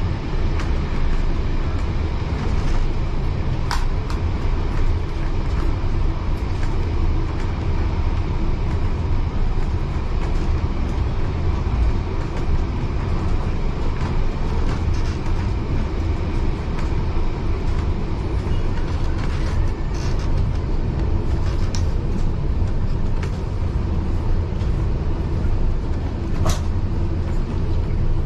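Heritage railway carriage running along the track, heard from inside: a steady low rumble of wheels on rails, with a few sharp clicks standing out now and then.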